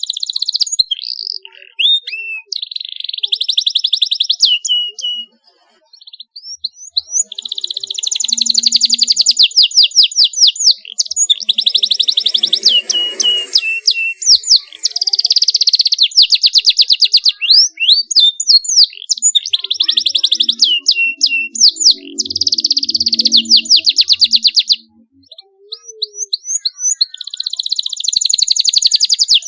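Canary singing: long phrases of sharp rolling trills and fast repeated high chirps, broken by short pauses about five seconds in and again near the end.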